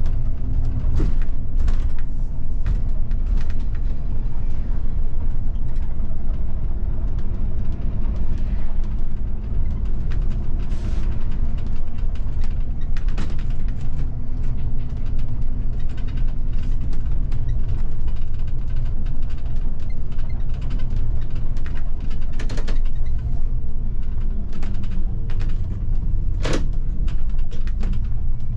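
Bus on the move heard from the driver's cab: a steady low engine and road rumble, with frequent short creaks and rattles from the body and fittings and a sharper knock near the end.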